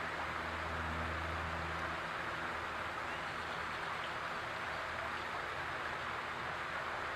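Backyard fountain water splashing and trickling steadily, with a low hum underneath that is strongest in the first two seconds.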